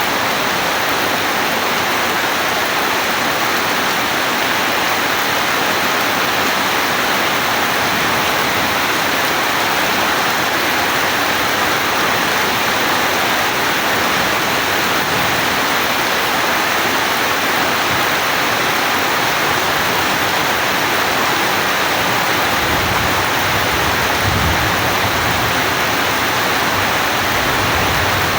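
Steady heavy rain, an even, unbroken hiss. A low rumble of distant thunder comes in near the end.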